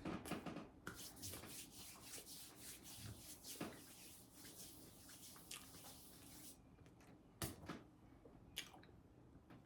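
Faint wet chewing and mouth sounds of someone eating a meatball sub, with many small soft clicks that thin out to a few isolated ticks near the end.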